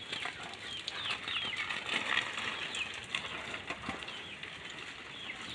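Birds chirping over and over, short high chirps that fall in pitch, over a faint steady hiss of water from a garden hose spraying onto leaves.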